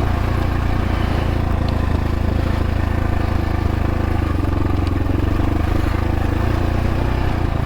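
X-Pro Templar X dirt bike engine running steadily under the rider, its pitch shifting slightly about halfway through and again near the end.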